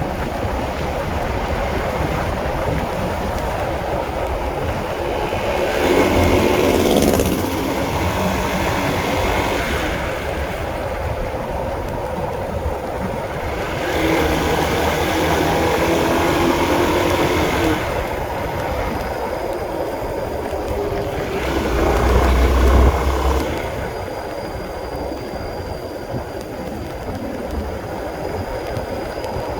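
Honda CB150R motorcycle's single-cylinder engine running as it is ridden, the revs rising and falling in several louder pulls over steady road noise.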